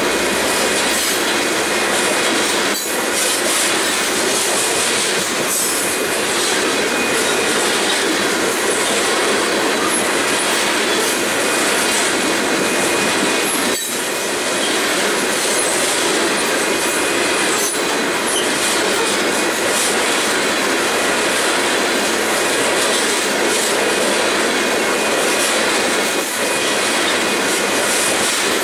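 Loaded grain train's covered hopper cars rolling past: a steady rush of steel wheels on rail, with faint wheel squeal.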